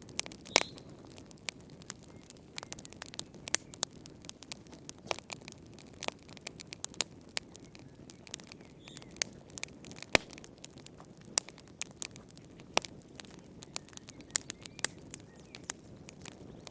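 Wood fire in a fireplace crackling, with irregular sharp pops and snaps over a soft hiss of burning. The two loudest pops come about half a second in and about ten seconds in.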